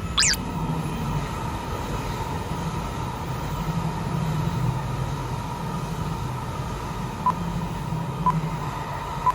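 Coupled E5 Hayabusa and E6 Komachi Shinkansen trains running by with a steady rumble. A brief high squeal comes about a quarter of a second in, and a few faint clicks near the end.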